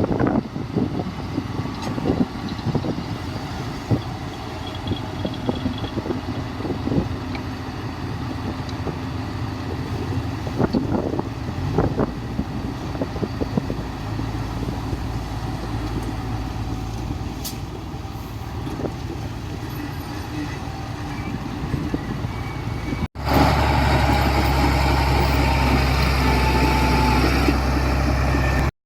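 Heavy diesel construction machinery running, with engine rumble and scattered knocks. About 23 seconds in the sound cuts abruptly to a louder, steady engine hum.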